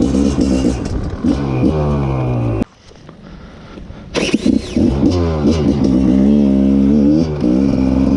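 Rieju MR 300 two-stroke enduro engine revving, then cutting out suddenly about two and a half seconds in: the bike stalls. About a second and a half later it is restarted on the electric starter, fires and revs up again.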